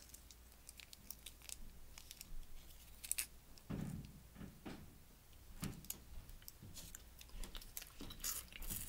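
Close-up chewing and wet mouth sounds from eating a sauced chicken sandwich, a scatter of short smacks and clicks.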